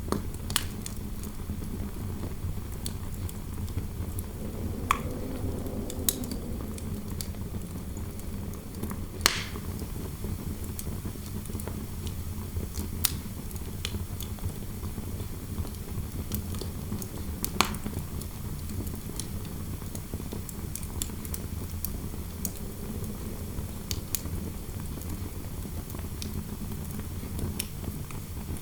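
Wood fire crackling, with scattered sharp pops every few seconds over a steady low rush of interior wind.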